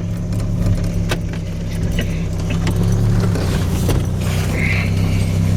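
1991 Chevy S10's 2.5-litre four-cylinder engine running steadily after a cold start, with a few sharp clicks over it.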